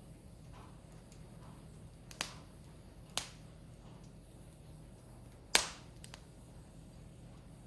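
Firewood burning in a campfire, popping sharply three times, about two, three and five and a half seconds in. The last pop is the loudest and is followed by a couple of faint ticks.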